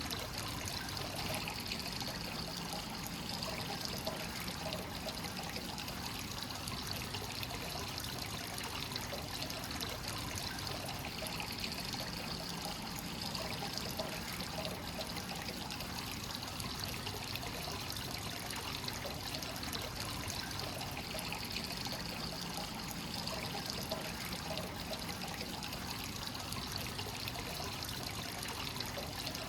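Hot spring water pouring steadily into a stone bath, a continuous trickling and splashing from the free-flowing source inflow.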